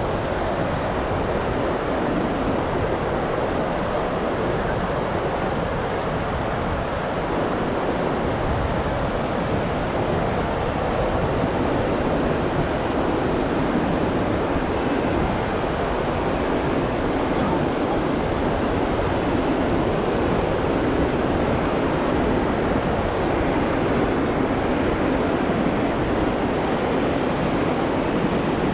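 Ocean surf washing onto the beach as a steady rush of noise, with wind buffeting the microphone.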